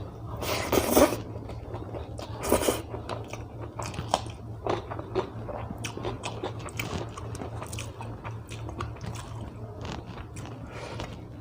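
Close-miked eating: two loud crunching bites, about a second in and again at two and a half seconds, then steady chewing with many small wet mouth clicks.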